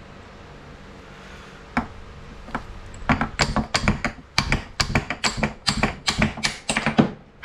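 Hammer striking metal: two single blows, then a quick run of sharp blows about three a second, driving a stuck pulley adapter off a small engine's crankshaft.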